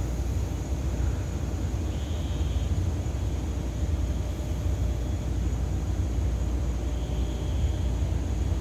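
Steady low rumble of outdoor background noise, with no fireworks bursts yet. Two faint, brief high trills come about two seconds and about seven seconds in.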